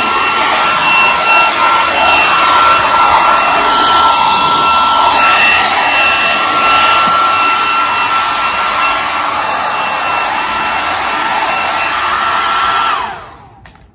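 Hand-held hair dryer running steadily, a rushing blow of air with a high motor whine, used to dry out a laptop after a water spill. Near the end it is switched off and the whine drops away as it winds down.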